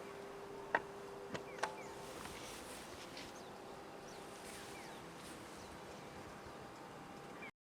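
Faint outdoor ambience with scattered short bird chirps and a steady low hum that fades out about two seconds in. Three sharp clicks come about a second in, and the sound cuts off abruptly near the end.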